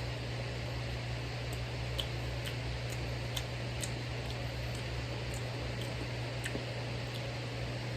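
Steady low hum over an even hiss, like a fan or air conditioner running, with a few faint scattered clicks.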